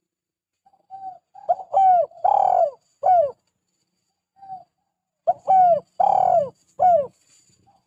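Spotted dove (tekukur) cooing in full song: two phrases of several quick coos, each note falling in pitch, with a longer, fuller coo in the middle of each phrase. There is a single short coo between the phrases.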